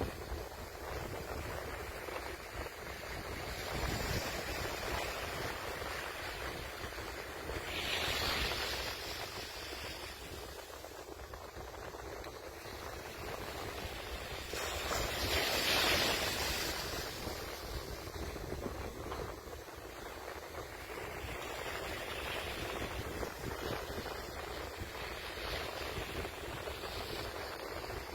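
Ocean waves breaking and washing in, the surf swelling and fading every few seconds, loudest about halfway through. A low wind rumble on the microphone runs underneath.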